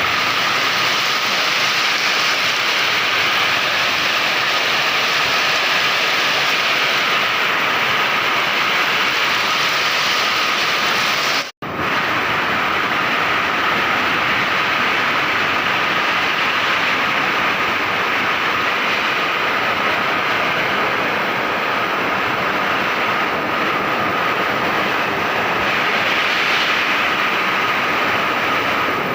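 Heavy rain pouring down in strong wind: a loud, steady hiss that cuts out for an instant about eleven and a half seconds in.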